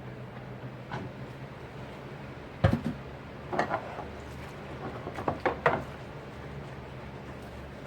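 Dishes knocking and clinking during hand washing: one heavy knock about a third of the way in, then a few sharp clinks near the middle, over a steady low hum.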